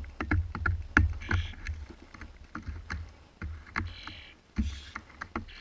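Starlings at a bird camera: quick irregular taps and knocks of feet and bills on the feeder or box, with low thuds, and a few short hissing rasps from the fledgling begging as it is fed.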